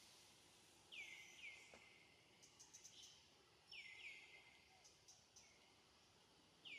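Faint bird chirps: about seven short calls, each falling in pitch, some in quick pairs, over faint outdoor background noise.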